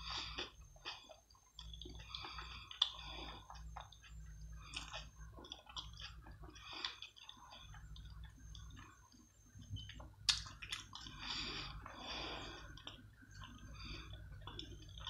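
A person chewing food close to the microphone, with soft, irregular wet mouth clicks and smacks and a sharper click about ten seconds in.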